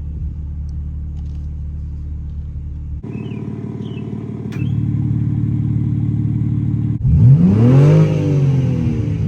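BMW G80 M3 Competition's twin-turbo inline-six idling in track mode with the exhaust valves open; the idle note steps up twice. About seven seconds in, the engine is blipped once, rising sharply for about a second and then falling back.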